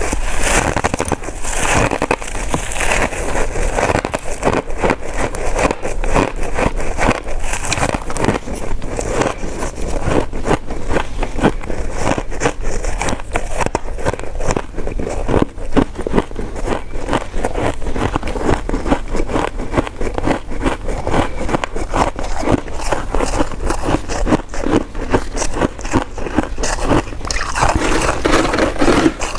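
Close-miked chewing of sticky coconut rice cake: a steady run of wet smacks and clicks.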